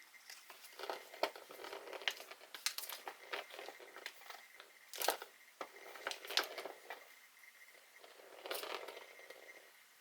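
Irregular crinkling and rustling with many scattered sharp clicks and taps, coming in bursts.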